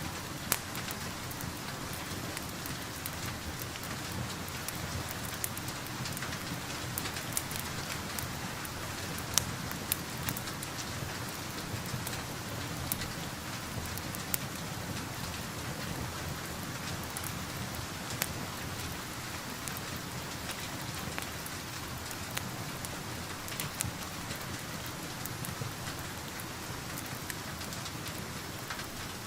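Steady rain falling, an even hiss with patter, with scattered sharp crackles and pops from a fireplace.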